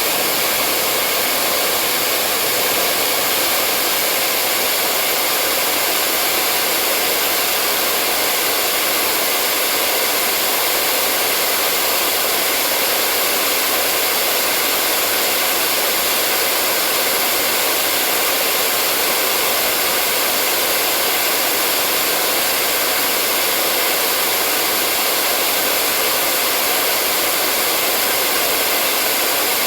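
Hair dryer running steadily, a constant airy whoosh with a faint motor hum, unchanging throughout.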